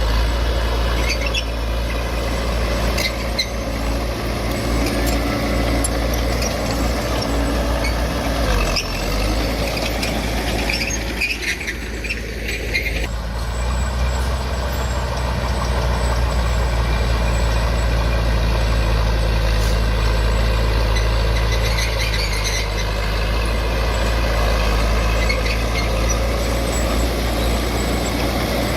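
Heavy earthmoving machinery's diesel engine running steadily, with scattered short high squeaks and clicks. The engine eases briefly about eleven seconds in.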